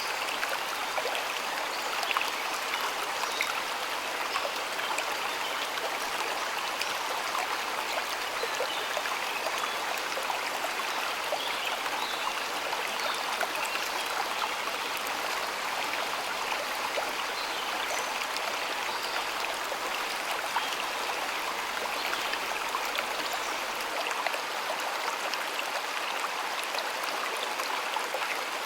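Stream water flowing steadily, a continuous rushing babble with many small splashes and trickles.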